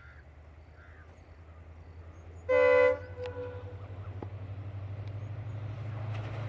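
Approaching train's low rumble growing steadily louder, with one short horn blast about two and a half seconds in.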